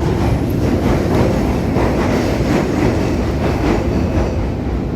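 London Underground Northern line train running at speed through the tunnel, heard from inside the carriage: a loud, steady running rumble with faint regular clicks from the wheels on the track.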